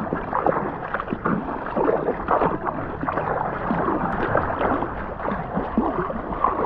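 Ocean water sloshing and splashing close to the microphone around paddleboards, an irregular run of small splashes.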